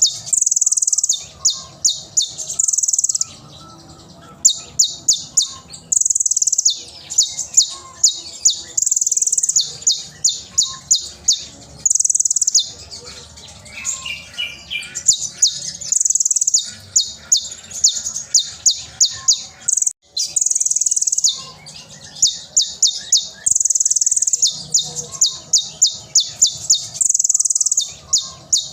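Kolibri ninja (konin) sunbird singing loudly: repeated runs of rapid, sharp, high-pitched notes, each run ending in a short held buzzy note, with a few brief pauses.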